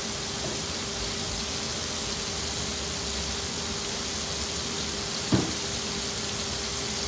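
Halved cherry tomatoes sizzling in oil in a hot frying pan, a steady hiss over a faint steady hum, with a single knock about five seconds in.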